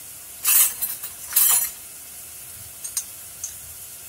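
Chopped garlic and onion sizzling in hot oil in a pan, a steady high hiss. Two short, louder scraping bursts come about half a second and a second and a half in, followed by two light clicks.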